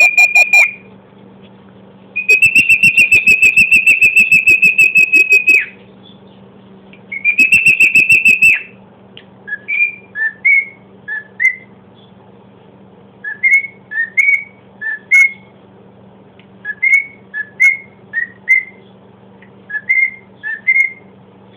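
Cockatiel whistling: three long, loud, fluttering whistles, followed from about halfway through by a run of short rising whistled notes in quick pairs and threes.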